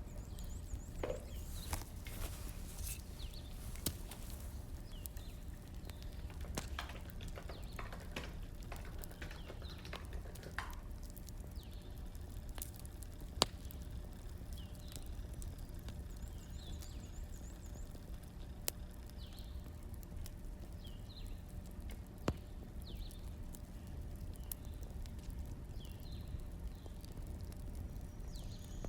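Wood fire crackling: irregular snaps and pops over a steady low rumble, with two sharper pops about halfway and two-thirds of the way through.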